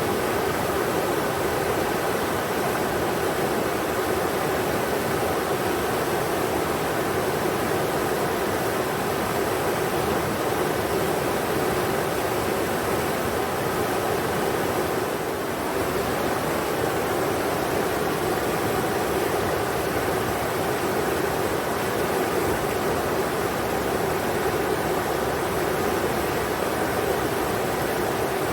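Steady rushing of a river flowing over rocks, an even noise with no breaks, dipping slightly in level about halfway through.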